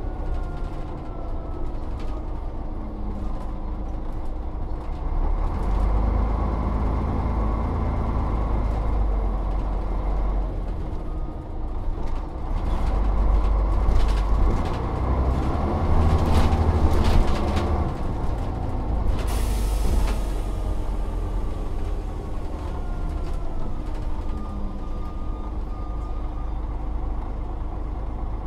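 Volvo Olympian double-decker bus under way: its diesel engine runs and pulls harder twice, rising and easing off, with a faint whine that glides in pitch. About nineteen seconds in there is a short, sharp hiss of air from the air brakes.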